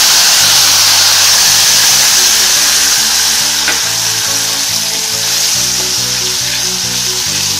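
Peanut paste sizzling loudly as it fries in hot oil with tempered spices in a steel kadhai, stirred with a steel ladle. The sizzle is steady and eases a little towards the end as the paste settles into the oil.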